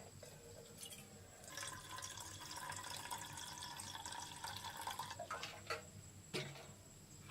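Water being poured into a container for about four seconds, then a couple of light knocks.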